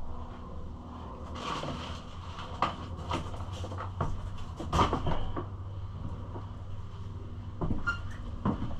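Loose plastic parts being handled and unpacked: a run of irregular knocks, clacks and rustles, over a steady low hum.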